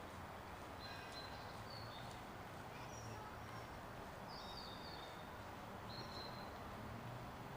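Faint steady background noise with short, high bird chirps now and then.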